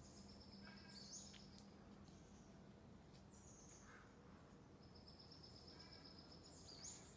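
Faint songbird singing in the trees: a rapid high trill that ends in a quick rising note, given twice.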